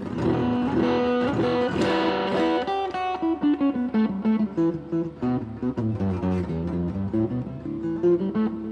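Tokai ALS48 Les Paul-style electric guitar played in a run of quick picked single notes and short chords.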